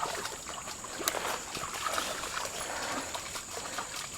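Dogs wading and splashing in shallow water, with a steady trickling of water and a few small splashes.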